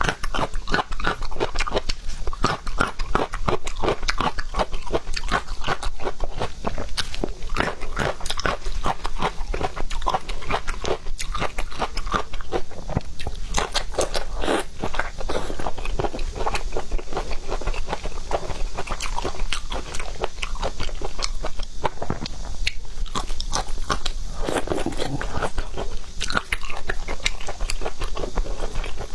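A person chewing and biting seafood: a dense, steady run of quick clicks and crunches.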